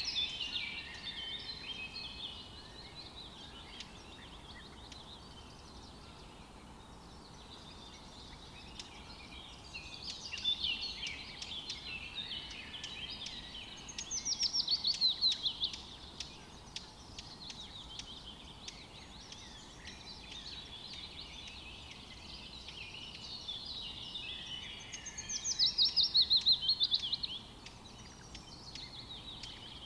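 Forest birdsong over a faint steady background hiss: several songbirds singing in separate bouts, the loudest two a rapid run of repeated falling notes about halfway through and again near the end.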